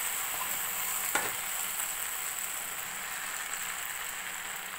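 Chopped okra frying uncovered in a kadhai on medium flame, with freshly added chopped tomatoes: a steady sizzle, with one short knock about a second in.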